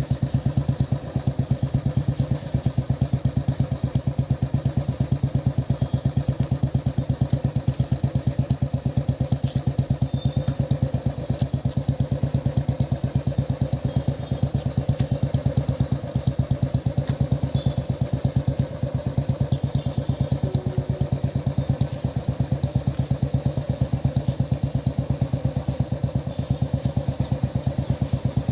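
Diesel locomotive engine chugging with a rapid, very even exhaust beat, several pulses a second, holding steady throughout.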